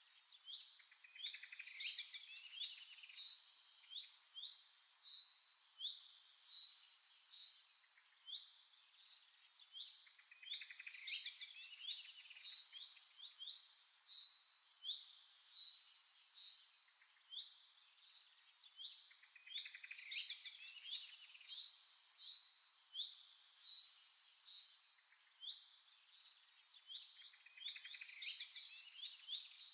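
A songbird singing the same short phrase of quick high notes ending in a trill, repeated about every nine to ten seconds.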